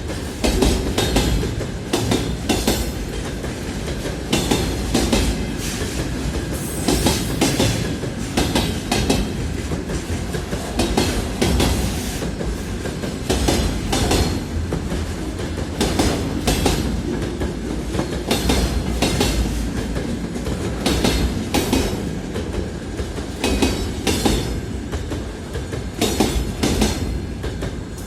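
Freight train rolling past, its wagon wheels clicking over the rail joints again and again over a steady rumble.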